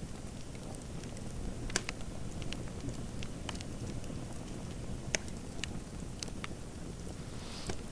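Fireplace fire crackling: a steady low rumble of burning with scattered sharp pops and snaps, about one every second or so.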